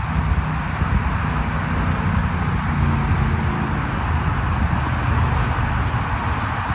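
Steady noise of nearby highway traffic, a continuous low rumble with tyre hiss and the hum of passing vehicles' engines.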